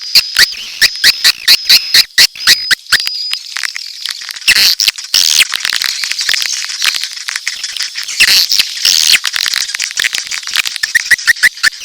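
Swiftlet calls used as a lure for swiftlet nest houses, mixing mating and chick calls: sharp clicks repeating several times a second and high twittering chirps. The chatter thickens into a dense flurry in the middle, then the quick clicks return near the end.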